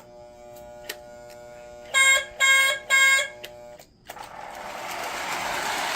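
Lionel 2032 Erie FA-1 toy train locomotive: a steady electrical hum with three short loud horn blasts about two seconds in. Then, about four seconds in, its motor starts in reverse and runs with a growing whir.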